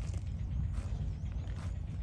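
Buffalo walking, its hooves clopping a few times over a steady low rumble. A faint high wavering whistle is heard in the middle.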